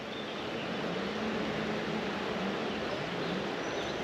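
Steady outdoor background noise: an even hiss with a faint, wavering low hum underneath.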